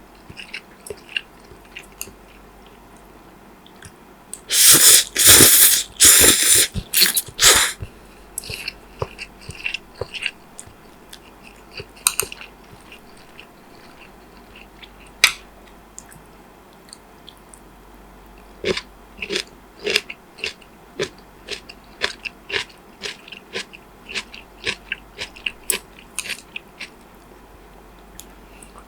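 Close-miked eating: steady chewing with many small wet clicks, and a run of loud crunching bites about five seconds in.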